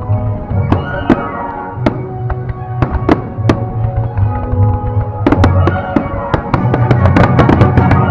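Fireworks going off in many sharp bangs and crackles over loud music, the bangs coming thicker from about five seconds in.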